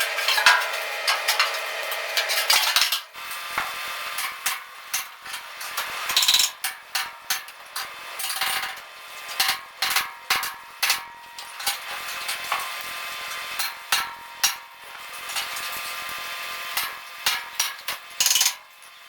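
Steel parts and hand tools clanking and knocking against each other in irregular, sharp metallic strikes, with a denser hissing clatter in the first few seconds.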